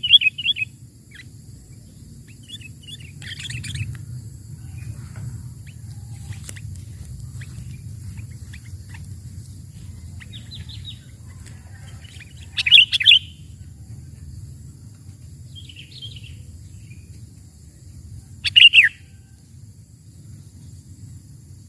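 Sooty-headed bulbuls calling in short bright phrases at intervals of several seconds, the loudest two about halfway and near the end, with a few fainter notes between. A low steady rumble runs underneath.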